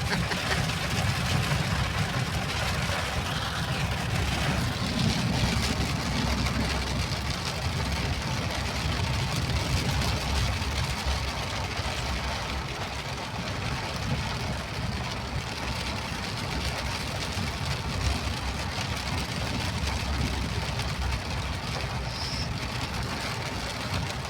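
Rain falling steadily, a constant hiss over a continuous low rumble.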